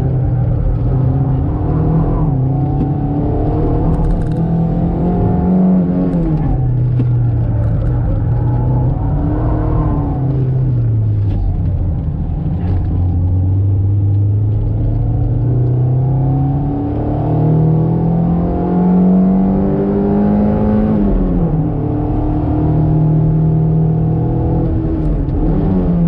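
Toyota MR2 SW20's mid-mounted 3S-GE inline-four heard from inside the cabin while lapping a circuit: the engine note climbs under acceleration and drops sharply at gear changes and lifts, twice rising hard and falling back, with a lower steady stretch in the middle.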